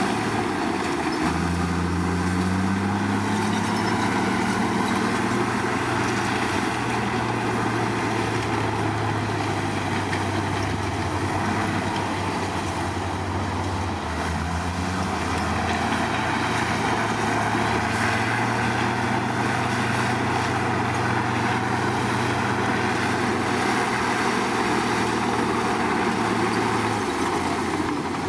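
Bulldozer's diesel engine running steadily, its pitch rising a little about a second in and again about halfway through, with a steady mechanical hiss over it.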